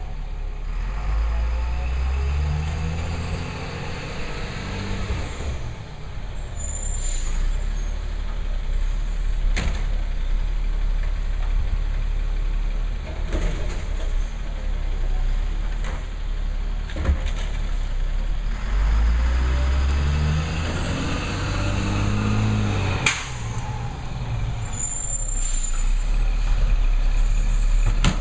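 Labrie garbage truck's engine running, revving up in steps twice, with high whines, short hisses and sharp metallic bangs between the revs.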